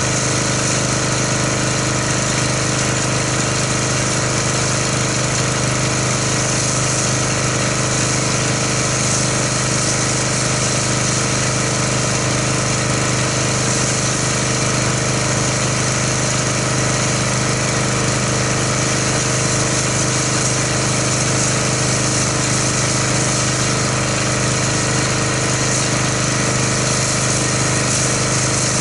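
Pressure washer running steadily under load, driving an MTM foam cannon that is spraying car-wash soap foam.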